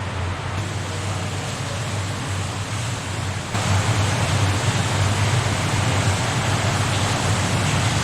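Rumbling rush of water from small waterfalls, echoing along a long brick-and-stone tunnel so that it sounds far bigger than it is. The steady noise grows louder about three and a half seconds in.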